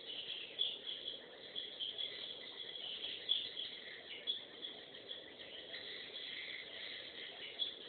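Many swiftlets twittering: a dense, continuous stream of short, high chirps.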